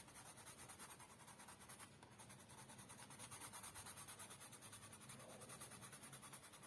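Colour pencil shading on paper in quick, even back-and-forth strokes, about seven a second, faint and scratchy.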